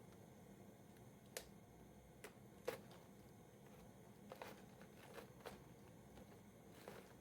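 Near silence with a handful of faint, scattered clicks and taps, about seven in all, the sharpest a little under three seconds in.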